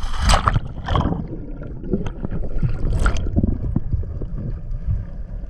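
Choppy seawater sloshing and splashing around a camera at the waterline beside a boat hull, with a few sharp splashes over a steady low rumble. It turns muffled as the camera goes under the surface.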